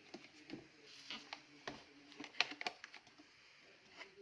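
Irregular light clicks and knocks of plastic vacuum-cleaner housing parts being handled and fitted together, the sharpest about two and a half seconds in, over a faint steady hum.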